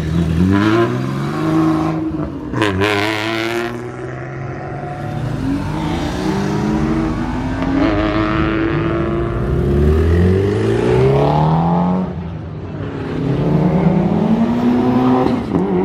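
Car engines revving and accelerating hard, again and again, their pitch climbing with each pull and dropping between them, as cars pass by.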